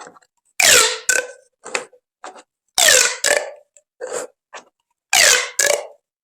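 Corrugated plastic pop tubes being stretched and squeezed. About every two seconds comes a loud ribbed zip with a gliding pitch, followed by a few shorter, softer pops.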